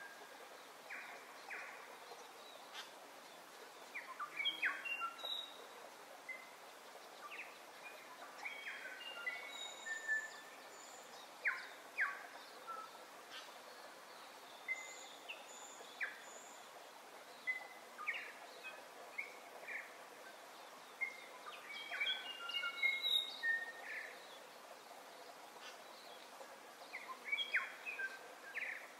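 Several birds chirping and calling at irregular intervals, with short whistles and trills, over a steady background hiss.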